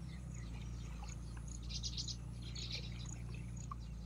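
Birds chirping in the background, with two short rapid trills about two seconds in and just before three seconds, over a steady low rumble.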